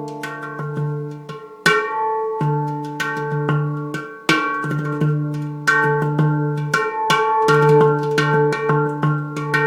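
A handpan (steel pan drum, D minor Mystic scale) being played by hand: ringing struck notes over a recurring low bass note, with a few sharper, brighter strikes in the pattern. The instrument has just been retuned after being damaged in transit.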